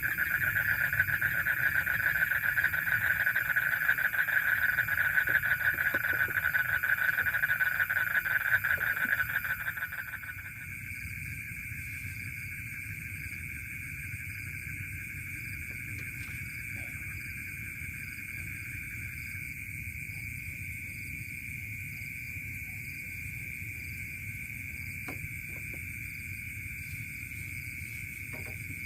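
Night-time chorus of calling insects: a loud, fast-pulsing trill that stops about ten seconds in, over several steady high-pitched buzzing tones.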